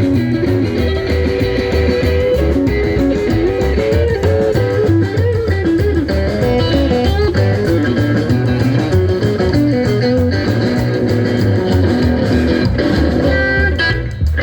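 Live neo-rockabilly band playing an instrumental break: an electric guitar lead line over a pulsing bass line and drums.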